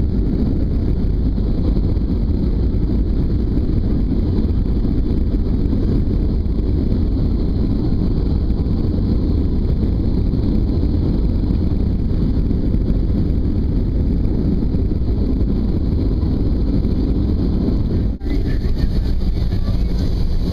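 Steady low rumble inside the cabin of a Boeing 737-700, from its engines and the air streaming past the fuselage. It dips out for an instant near the end.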